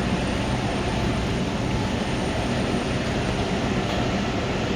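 Steady rumble of boiler-room equipment running, with a faint, steady high-pitched whine over it.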